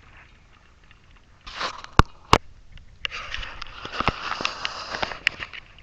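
Hydraulic fluid being poured from a container into a filter, a steady splashing hiss lasting about two and a half seconds. It comes after two sharp clicks of the container being handled.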